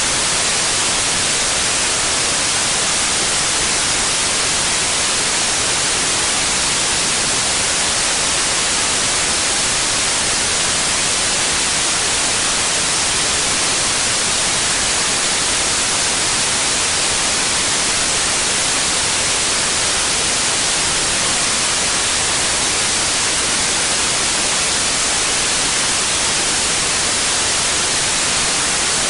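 Steady white noise: an even, unchanging hiss, brightest in the upper frequencies.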